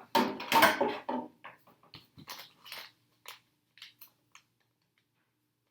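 A brief, loud voice-like sound, then a string of light clicks and taps from small plastic body parts being handled and fitted on a workbench.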